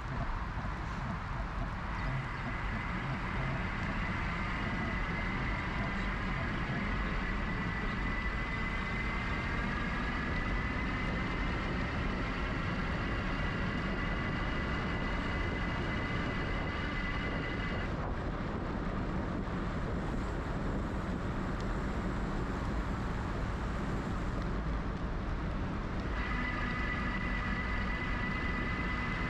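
Electric bike hub motor of a GoCycle GX whining under steady wind and tyre noise on the mic, its pitch rising slowly as speed builds. The whine stops about two-thirds of the way through while the bike coasts, then comes back near the end.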